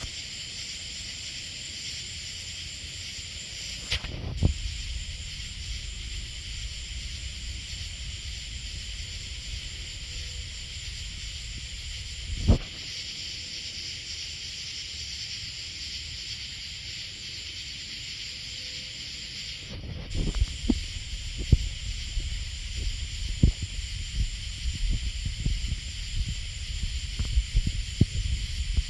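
A steady high-pitched hiss, with a dull low thump at about four seconds and another at about twelve seconds. From about twenty seconds in, a low rumble sets in, broken by irregular short knocks and crackles.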